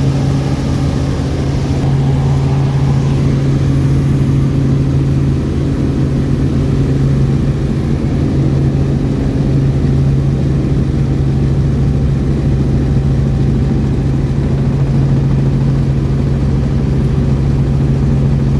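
Helicopter in flight heard from inside the cabin: a loud, steady drone with a strong constant low hum and even engine and rotor noise.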